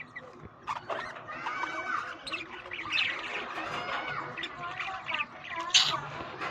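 Several budgerigars chattering together: many short overlapping chirps and warbling calls, with one louder, sharp squawk near the end.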